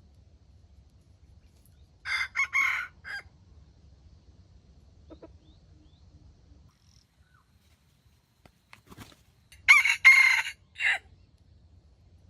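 A rooster crowing twice, about seven seconds apart. Each crow is short and broken into a few quick notes that end in a brief last note.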